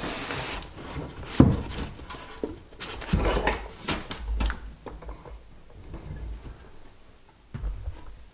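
Scattered knocks, taps and rustles of pine boards and tools being handled while measuring and fitting tongue-and-groove trim, with a sharp knock about a second and a half in and another about three seconds in.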